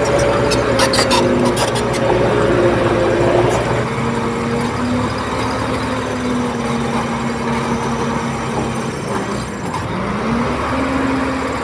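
Diesel engine of heavy earthmoving machinery running steadily, with a cluster of sharp metallic clicks in the first two seconds. About ten seconds in, the engine revs up and holds at the higher pitch.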